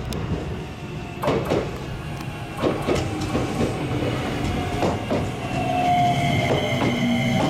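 Shizuoka Railway A3000-series electric train rolling past slowly as it pulls into the station, its wheels clacking irregularly over rail joints. About six seconds in, a steady whine sets in as it brakes, its main tone falling slightly in pitch.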